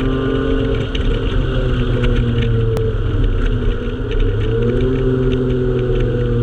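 Honda J32A3 3.2-litre V6 VTEC engine running under way, its note easing slowly lower, then rising again about four and a half seconds in and holding, over a steady low rumble.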